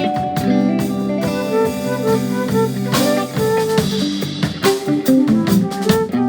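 Live improvised jazz fusion: guitar playing over bass and drum kit, with steady drum and cymbal strokes.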